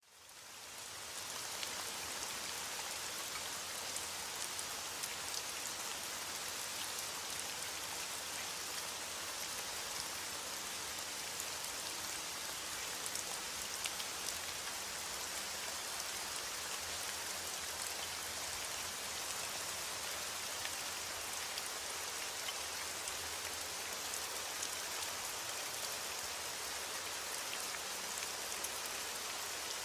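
Heavy rain beating steadily on window glass, fading in over the first second or so, with small scattered ticks through it.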